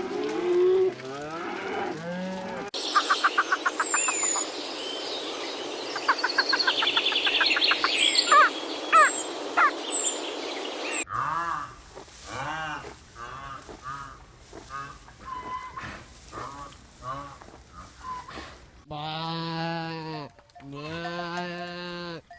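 A run of different animal sounds cut one after another: short pitched calls, then several birds singing with fast trills and high chirps, then a farm animal's short repeated calls and, near the end, long pitched calls.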